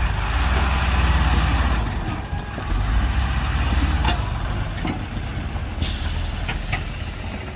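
A heavy vehicle's engine rumbling loudly as it works along a muddy road, swelling twice, with a loud hiss over the first swell.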